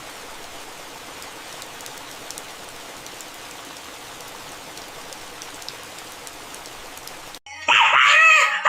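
A steady, even hiss like rain, with a few faint ticks. It stops abruptly, and near the end a loud pitched voice or music with a bending pitch cuts in.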